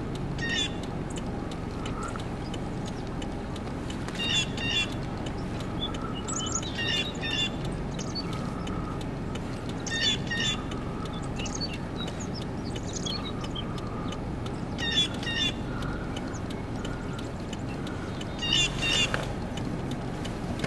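Small birds chirping in short high clusters of two or three notes every few seconds, over a steady low rumble.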